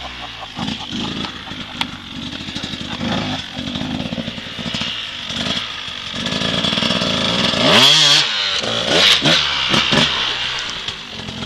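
Dirt bike engine running at low speed with uneven throttle blips, then revving up sharply about eight seconds in.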